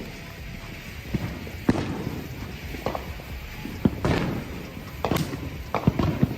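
Consumer firework fountain going off: a run of irregular sharp pops, about seven, over a steady hiss.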